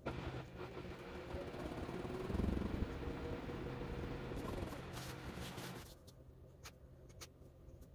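Washing machine running, its motor whirring with a tone that slides up and down in pitch and a heavier low rumble about two and a half seconds in. The machine sound drops away about six seconds in, leaving faint light ticks.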